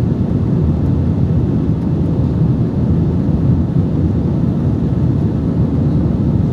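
Steady low rumble of an airliner in flight heard from inside the passenger cabin: engine and airflow noise with no distinct events.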